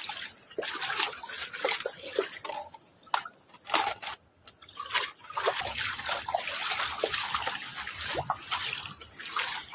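Water dripping and splashing into rainwater standing on a flooded terrace: irregular drops and splatters over a steady trickling hiss.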